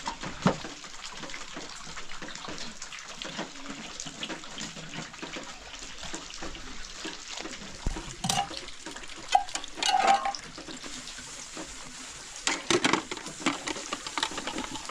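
Water splashing, with scattered knocks and clicks and a few louder clusters of knocks in the second half.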